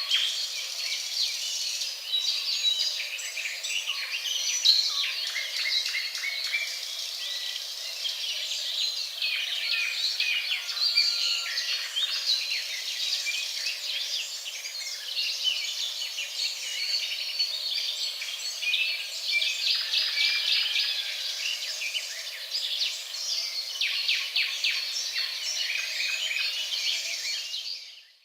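Nature ambience sound effect: a dense chorus of many small birds chirping and calling over each other, fading out near the end.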